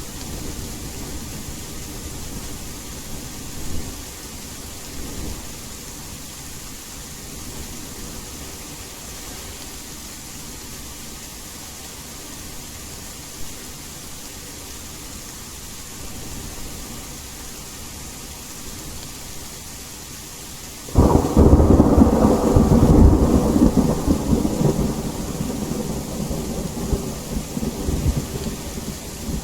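Steady rain hissing, with low thunder rumbling under it, then a sudden loud thunderclap about two-thirds of the way through that rolls on and slowly fades.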